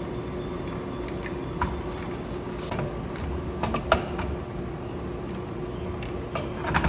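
A few sharp metallic knocks and clinks, loudest about four seconds in, over a steady mechanical hum.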